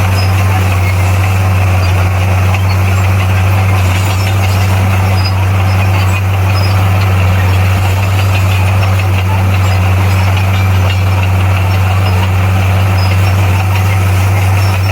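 Bulldozer's diesel engine running at a constant speed, a loud steady low drone that does not change.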